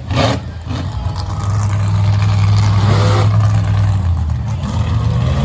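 Monster truck engine running steadily at a high idle, then rising in pitch near the end as it is revved.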